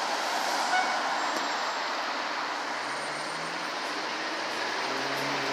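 Heavy fire engine's diesel engine running with road and traffic noise. A low engine hum grows a little stronger in the second half.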